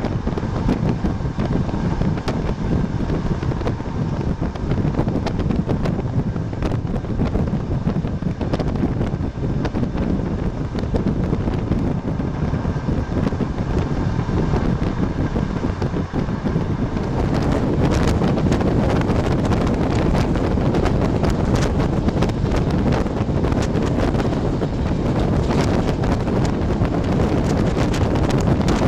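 A passenger train running, a steady rumble and rush with wind buffeting the microphone. It grows louder and rougher about seventeen seconds in.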